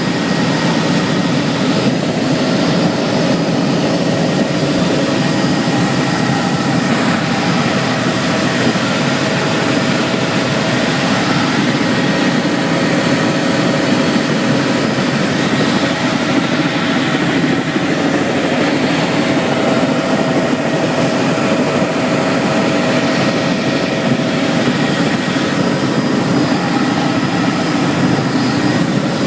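Steady whirring of a camera drone's propellers and motors, an even rushing noise with a constant high whine that does not change.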